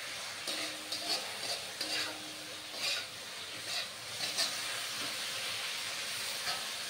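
Pork pieces in soy sauce sizzling in a wok while a metal spatula stirs and scrapes them, in short irregular strokes about every half second to a second over a steady frying hiss.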